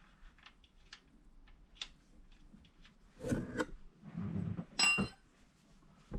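Hands working on the ATV as a plug is put back in: scattered small clicks, two short rubbing, scraping passes in the middle, and a short metallic clink just before five seconds in.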